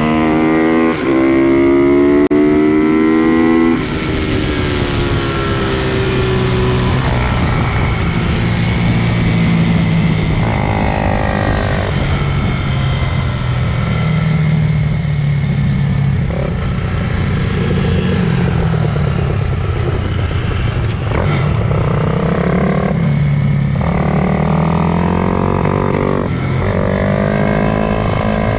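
Pit bike engines racing, revving up and down over and over as the bikes accelerate and shift. The loudest rising rev is in the first four seconds, and more rise near the middle and near the end.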